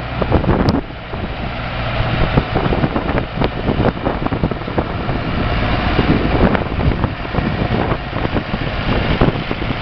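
Ursus 4512 tractor's diesel engine running steadily, with irregular knocks and rattles over the engine note.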